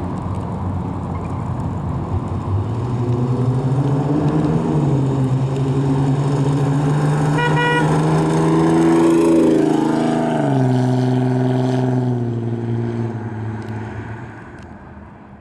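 The 1988 Pontiac Fiero's 2.8-litre V6 as the car drives: the engine note climbs as it accelerates, holds, drops sharply about ten seconds in, then fades away. A short high tone sounds briefly around the middle.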